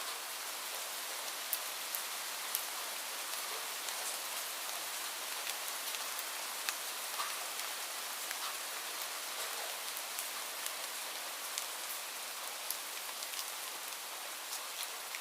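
Steady rain falling, an even hiss with individual drops hitting close by and clicking out now and then.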